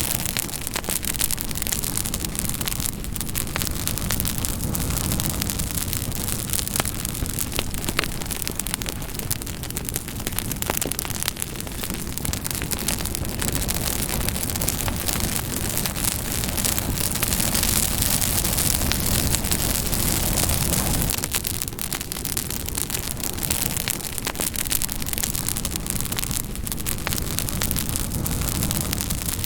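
Campfire burning: a steady rushing noise with a low rumble, dotted with many small crackles and pops from the burning wood.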